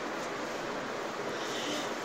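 Steady, even running noise inside a moving train coach, with a brief higher hiss about one and a half seconds in.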